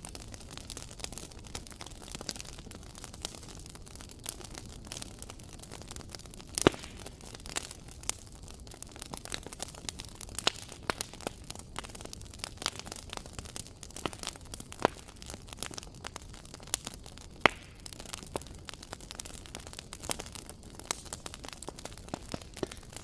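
Wood fire burning in a fireplace, crackling with a steady soft hiss and many irregular pops and snaps; two louder pops stand out, about six seconds in and again about seventeen seconds in.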